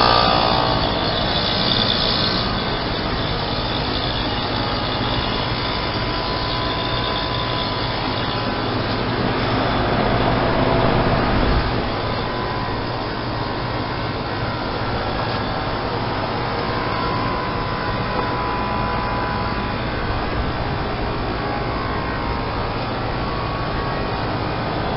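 2000 Lennox Elite heat pump outdoor unit running steadily with a hum and a rushing, hissing noise as it goes into a defrost cycle. About ten seconds in a hiss swells up and then cuts off sharply.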